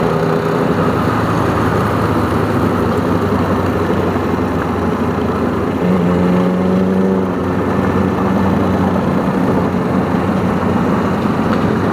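Kawasaki Ninja 300's parallel-twin engine running under way, with steady wind and road noise. About six seconds in the engine note grows louder and rises slightly for a second or so, then settles back.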